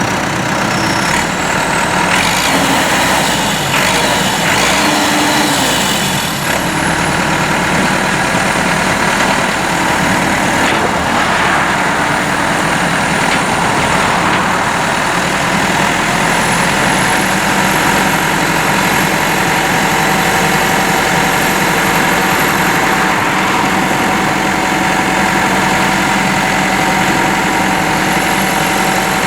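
Four-cylinder Perkins turbo diesel engine of a 2006 Massey Ferguson 596 tractor running steadily.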